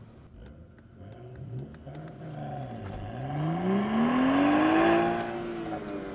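A car engine accelerating hard on an autocross course: its pitch dips about three seconds in, then climbs steadily for about two seconds and eases off slightly near the end.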